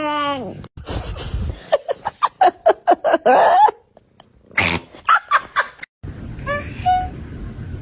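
Cats meowing in a run of short clips: a long falling meow, then a rapid string of short cries, then a few short meows near the end.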